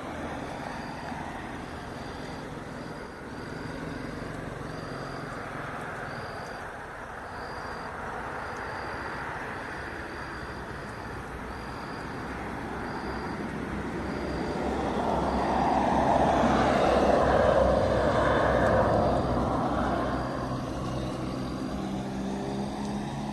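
Roadside traffic noise, with a vehicle passing that grows loudest about two-thirds of the way through and then fades. A faint high tone pulses about once a second throughout.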